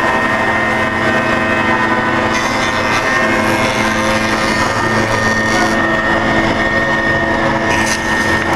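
Balestrini contour tenoner running steadily with a constant motor hum and whine, with a hissier stretch from about two to six seconds in.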